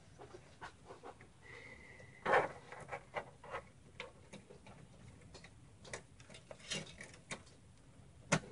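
Scattered light clicks and taps of a computer power cable and its plastic connector being handled and routed inside a small mini-ITX case, with a sharper knock about two seconds in and another near the end.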